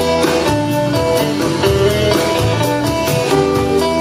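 Live blues band playing an instrumental stretch of a Cajun blues song: a short guitar riff repeating over bass and drums.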